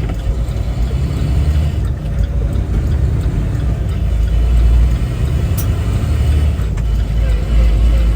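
Steady low rumble of a semi truck heard from inside the cab while driving, with a single sharp click about five and a half seconds in.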